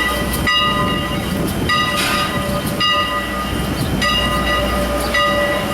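Locomotive bell ringing about once a second, each clang ringing on until the next strike, over the low rumble of a train.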